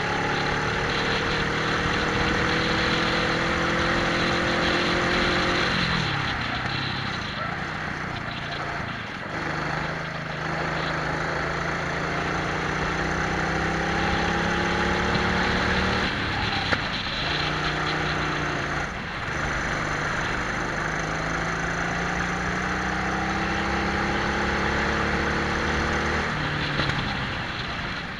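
Twin-engine Prokart's engines pulling hard with rising pitch, then dropping off the throttle, about four times, with wind rushing over the onboard microphone.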